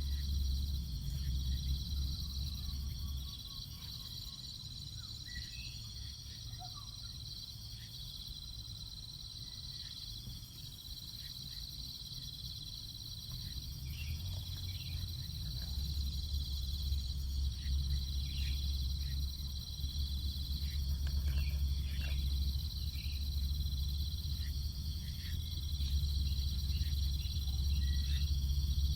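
Insects trilling steadily on a high pitch, with scattered short faint chirps. A low rumble fades out after about three seconds and returns about halfway through.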